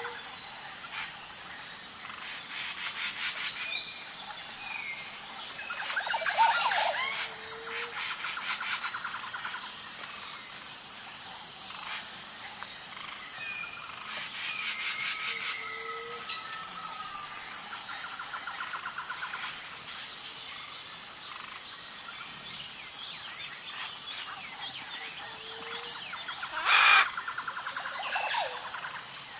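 Chorus of wild birds: whistled calls and fast trills over a steady high insect drone, with a short low hoot repeating every several seconds and a louder burst of calls twice.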